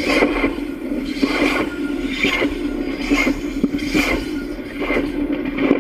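Freight train cars rolling directly over a camera lying between the rails: steel wheels running and clattering on the track under a steady hum, with a loud swell about once a second as each wheel set passes.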